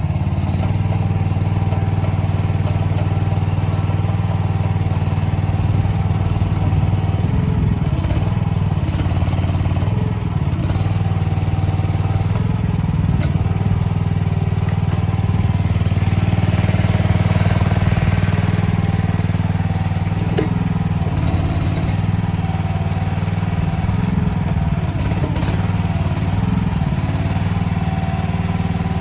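Mini excavator's diesel engine running steadily under load as the machine climbs a snowy bank, with a few short knocks along the way.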